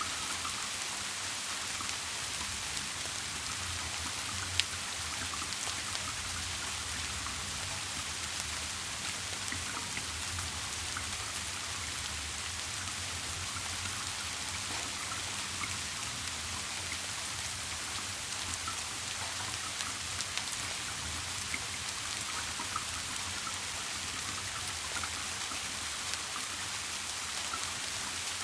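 Steady rain falling, an even hiss sprinkled with small drop ticks, with one sharper tick about four and a half seconds in.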